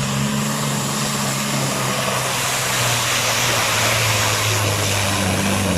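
Pulling truck's diesel engine running loud and steady at full power under load while it drags the weighted sled, with a dense hiss of exhaust and turbo over the engine note.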